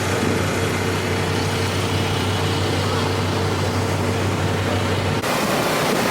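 A car engine running steadily with a low hum. About five seconds in it cuts off abruptly, giving way to wind noise on the microphone.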